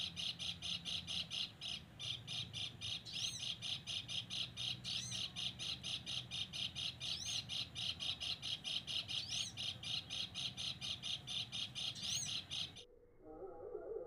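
Bird calling: a rapid, even train of high chirps, about four or five a second, with a few short rising whistles over it. It cuts off suddenly near the end.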